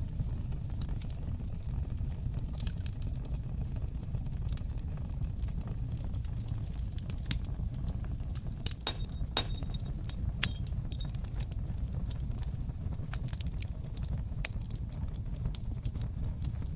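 Wood fire in a stone fireplace crackling, with irregular sharp pops over a steady low rumble of burning flames; the loudest pop comes about ten seconds in.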